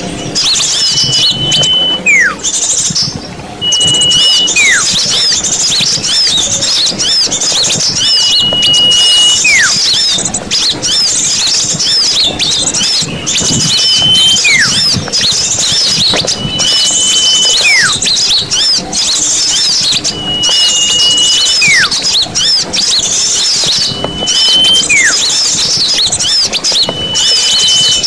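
Small-bird lure recording: a dense chatter of many small birds twittering, with one clear call repeating every three to four seconds. Each call is a short held whistle that then drops steeply in pitch.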